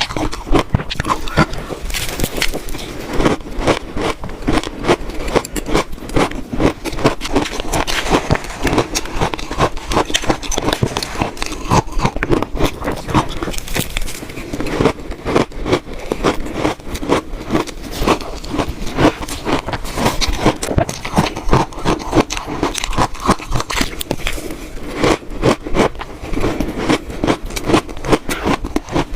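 Close-miked biting and chewing of crunchy shaved ice, a dense, unbroken stream of crisp crunches.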